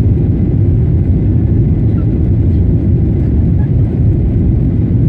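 Boeing 737-800 airliner with CFM56-7B turbofan engines, giving a loud, steady low rumble.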